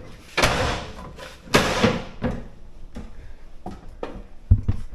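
Handling noises: two short scraping rustles in the first two seconds, a few light knocks, and a sharp thud near the end, like a door or panel being shut.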